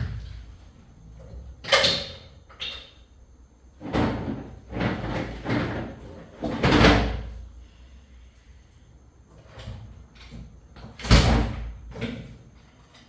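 Hand work on an engine in a workshop: a string of separate knocks, scrapes and clunks from parts and tools being handled, the loudest about two seconds in, near seven seconds and about eleven seconds in.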